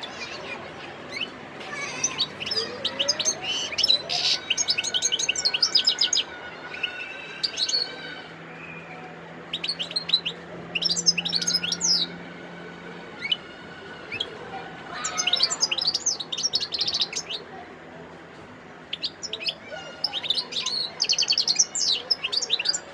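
European goldfinch singing: several bursts of rapid, high twittering phrases with short pauses between them.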